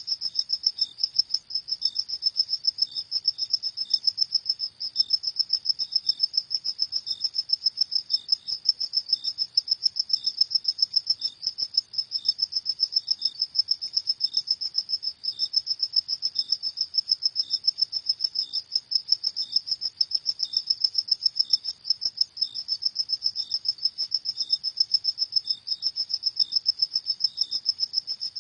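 Crickets chirping at night in a rapid, continuous pulsing trill, with a second, fainter chirp repeating at a slower regular rate slightly lower in pitch.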